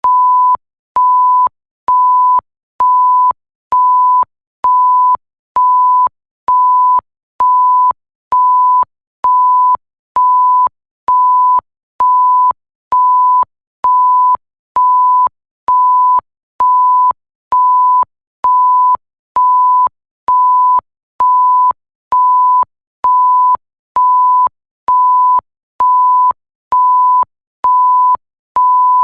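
Electronic bleep sound effect: a single pure, steady tone beeping on and off about once a second. Each beep lasts a little over half a second, with short silent gaps, and it starts and stops abruptly with a faint click at each edge.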